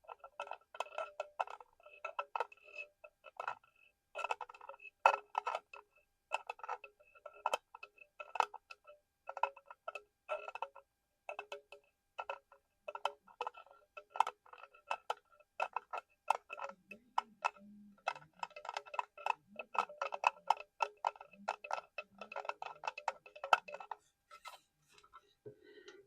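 Rapid ASMR tapping on a hard, hollow collectible that rings briefly at the same few pitches with every tap. The taps come in quick irregular runs, several a second, with short pauses near the middle and near the end.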